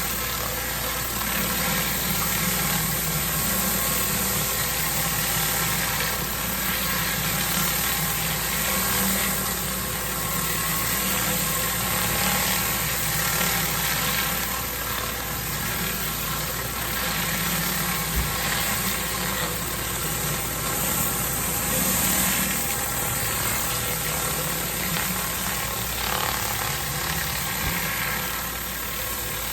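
Pressure washer engine running steadily, with high-pressure water hissing from a rotary flat surface cleaner blasting moss from block paving.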